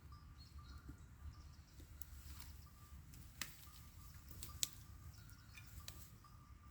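Quiet forest ambience: a low rumble with faint, high insect or bird chirps, broken by a few sharp clicks, the loudest two about a second apart near the middle.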